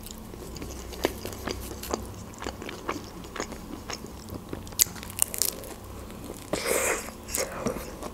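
A person chewing a mouthful of shawarma in lavash close to a clip-on microphone: scattered sharp wet clicks and crunches, with a brief louder noisy stretch about six and a half seconds in.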